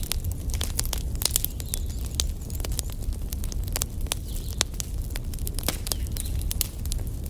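Wood fire burning in a fireplace, a steady low rumble of flames with frequent sharp crackles and pops from the logs at irregular intervals.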